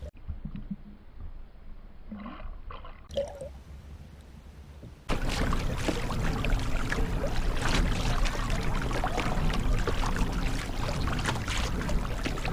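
Water splashing and trickling against a kayak, with many small drips and knocks. It is quiet for the first few seconds, then starts suddenly about five seconds in and keeps going steadily.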